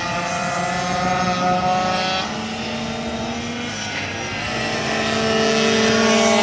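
Several racing minibike engines buzzing at high revs together, their pitches rising and falling as the riders accelerate and back off. One engine grows louder near the end.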